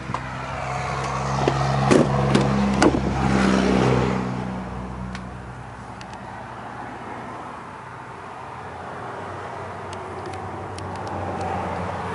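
A 6.0-litre Power Stroke turbo diesel V8 running, growing louder over the first few seconds and then settling back to a steadier, quieter run, with a few sharp clicks about two seconds in.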